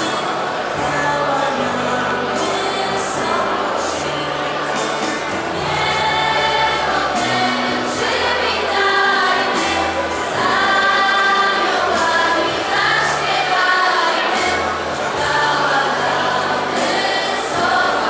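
A choir singing a Polish Christmas carol (kolęda), with low held bass notes underneath that change every second or two.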